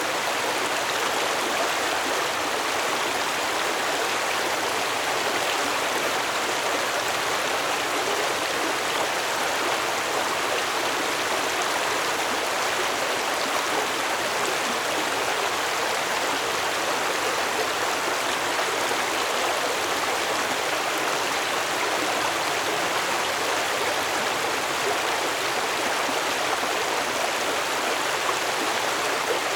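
Stream water flowing steadily over stones, an even rushing and babbling with no change in level.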